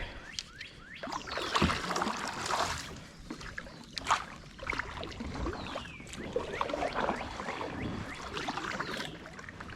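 Water splashing and dripping around a kayak on a creek, uneven throughout, with a few light knocks, the sharpest about four seconds in.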